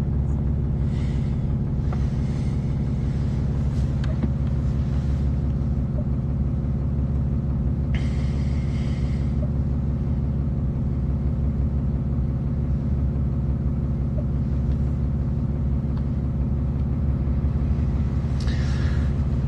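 Truck engine idling steadily, a constant low rumble heard from inside the cab, with a few brief soft hisses now and then.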